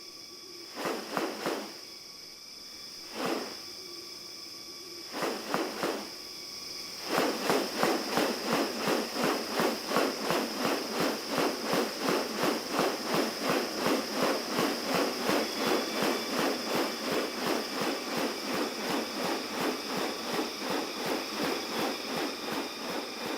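Rainforest sound: a steady high-pitched insect drone, joined by a few sharp clicking calls at first, then, from about seven seconds in, a fast, even series of sharp clicks, about three a second, that continues.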